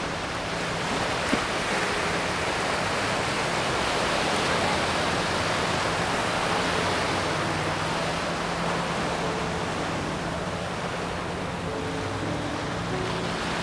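Waves breaking and washing in on a shallow beach: a continuous surf hiss that swells towards the middle and eases off again, with faint piano music beneath.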